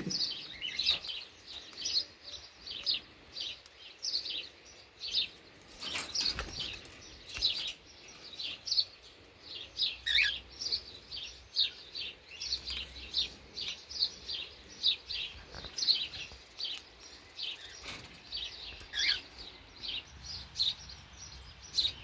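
Small birds chirping in quick, repeated short notes, two or three a second, with a few sharp clicks in between.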